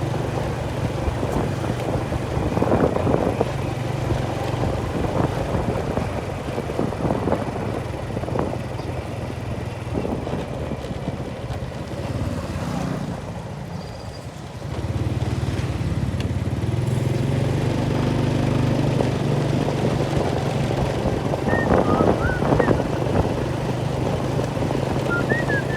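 A small engine running steadily with a low drone. About halfway through, the drone drops away briefly, then picks up again and runs stronger.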